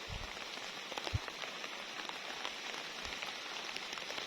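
Steady rain falling, an even hiss with scattered drops ticking, and a few soft low thuds.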